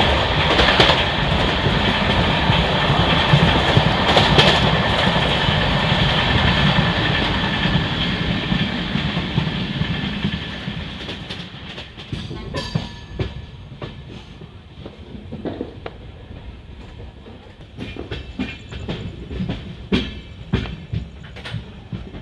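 Passenger train running on the rails, a steady rumble that fades over several seconds as it slows. After that, scattered sharp clacks of the wheels over rail joints.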